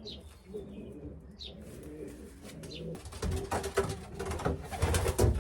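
Racing pigeons cooing. From about three seconds in, a run of rustling and knocking noises builds up and is loudest near the end.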